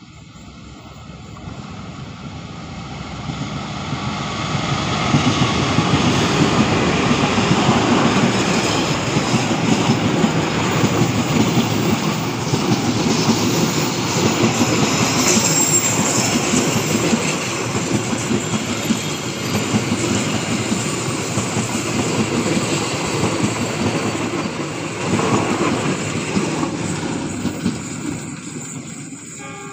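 Diesel-hauled passenger train approaching and passing close by: the locomotive's engine growing louder over the first few seconds, then the coaches going by with a steady rattle and clatter of wheels over the rails, easing off near the end as the train recedes.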